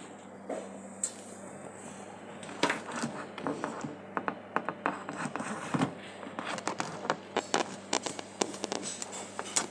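Irregular scratching and clicking: many short, sharp scrapes and ticks that start a few seconds in and go on over a faint steady hum.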